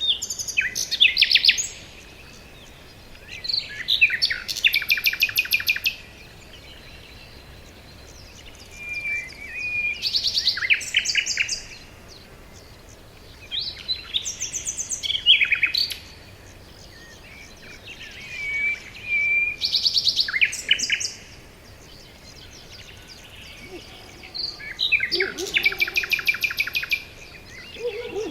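A songbird singing its song over and over: six phrases of about two seconds each, every four to five seconds, each a fast run of repeated high notes, with a soft steady background hiss between them.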